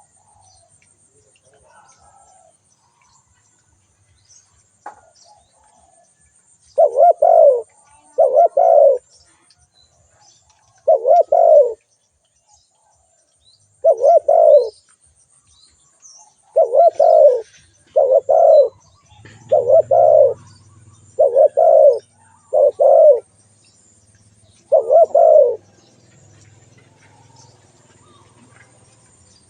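Spotted dove calling: a series of loud, low cooing notes, about ten in all, some coming in close pairs, starting about seven seconds in. Faint chirps of small birds in the background.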